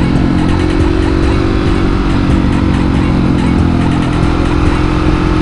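A 701 motorcycle's engine running at a steady cruising pitch while riding, with a constant rush of wind and road noise underneath.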